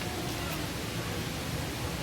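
Steady rushing outdoor background noise, with faint voices in the distance.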